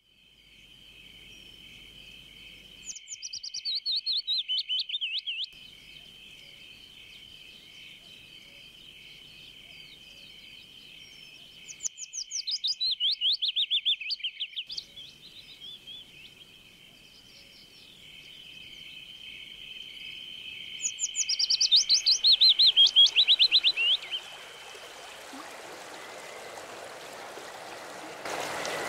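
Birdsong: a bird sings the same loud phrase three times, each sliding down from high to lower pitch and ending in a fast trill, over a steady high trill. A running stream fades in during the second half and grows louder near the end.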